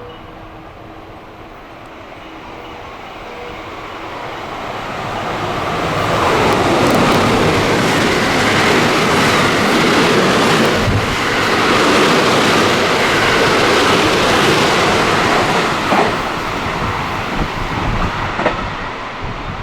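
A train passing at speed without stopping. The noise builds over about six seconds, stays loud for roughly nine, then fades, with a few sharp clicks near the end.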